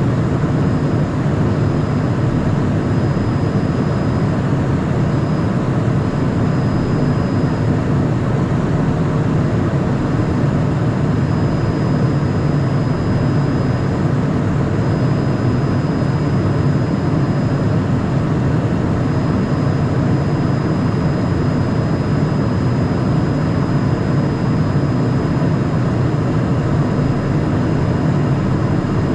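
Steady cockpit noise of a Cessna Citation Mustang light jet in flight: an even rush of airflow and engine noise from its twin turbofans, with a faint steady high whine above it.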